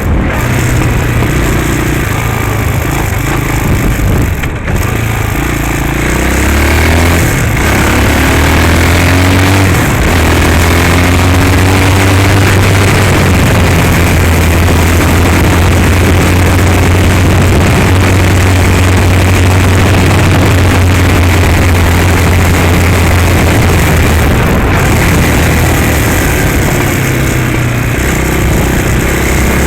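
Hawk 250cc dirt bike's single-cylinder four-stroke engine running, its revs rising and falling a few seconds in and again near the end.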